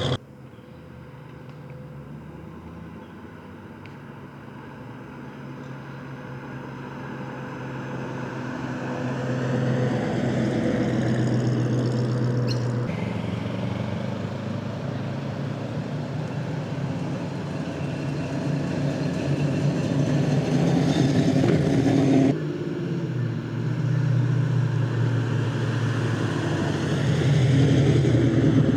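Performance car engines running as cars drive slowly past, one after another. The sound swells as each car approaches and changes abruptly twice where one car gives way to the next.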